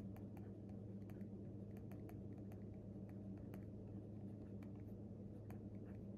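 Pen writing on paper: light, irregular ticks and taps, a few a second, over a steady low hum.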